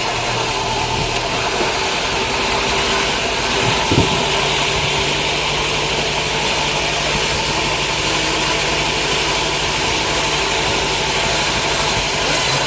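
Sawmill machinery running steadily with a constant motor hum, and a single knock about four seconds in.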